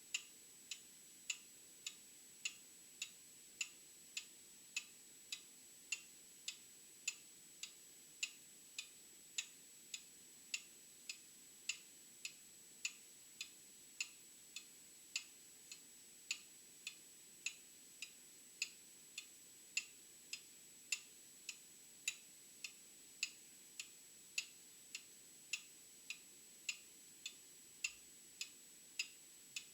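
An old clock ticking steadily, a little under two ticks a second, the ticks alternating louder and softer in a tick-tock pattern. A faint steady high whine sits beneath it.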